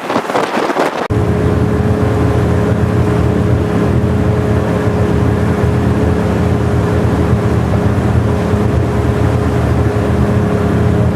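Wind buffeting the microphone for about a second, then an abrupt change to a jet boat's engine running steadily under way: a loud, even low drone with a steady tone held above it.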